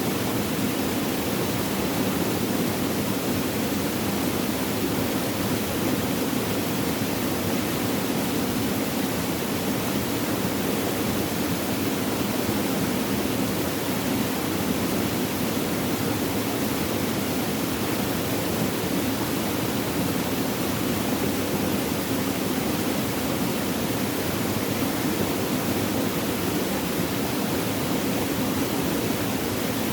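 Flowing water: a steady, unbroken rush with no distinct splashes or drips.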